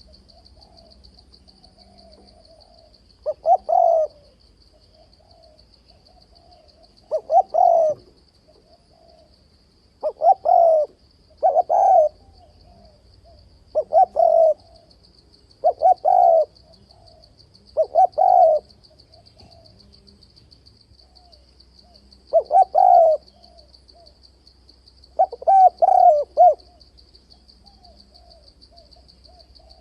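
Male spotted dove cooing its territorial challenge call, the kind used as a lure to provoke wild doves in fight trapping. The bird gives about ten short coo phrases, one every two to four seconds, with a steady, faint, high insect-like trill beneath.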